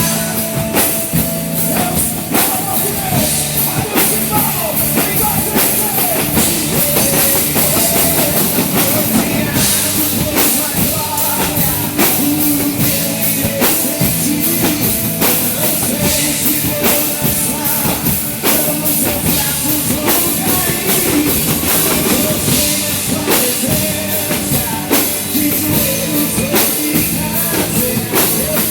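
Live band playing an instrumental rock-style passage of a worship song, led by a drum kit: a steady beat of bass drum, snare and cymbals under a melodic lead line and bass.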